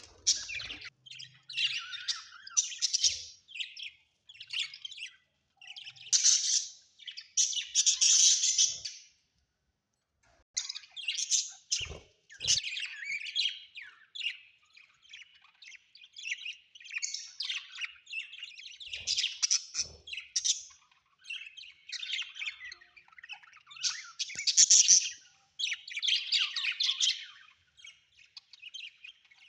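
Budgerigars chirping and chattering almost without pause, in rapid warbling bursts with a brief lull about ten seconds in.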